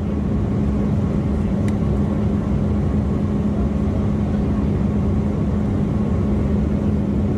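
Steady jet airliner cabin noise inside an Embraer E175: the constant rush and hum of its engines and airflow, with a steady low drone.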